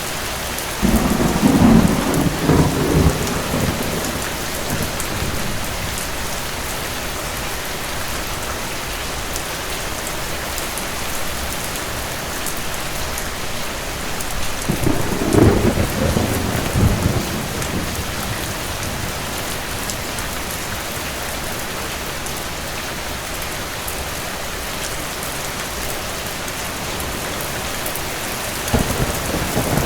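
Steady heavy rain hissing without a break, with rolls of thunder rumbling low about a second in, again around the middle, and once more starting near the end.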